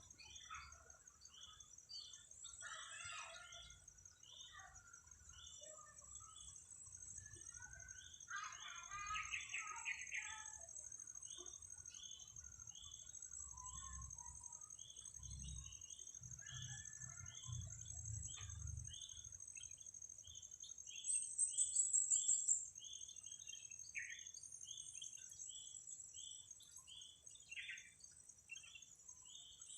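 Sooty-headed bulbul song and calls, with a run of short repeated high chirps at about two a second over a steady high-pitched buzz. A brief, louder high trill comes about 21 seconds in.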